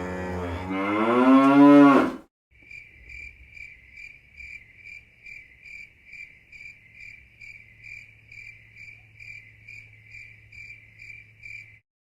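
A long, loud, low call that rises in pitch for about two seconds. Then a chorus of cicadas pulses about twice a second over a steady low hum, cutting off abruptly near the end.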